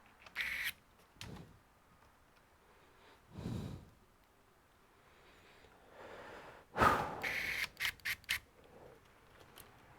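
Workbench handling of a laptop under repair: scattered sharp clicks and small knocks of plastic and metal parts being handled, loudest in a quick cluster of clicks about seven to eight seconds in. A soft breath or sigh comes about three and a half seconds in.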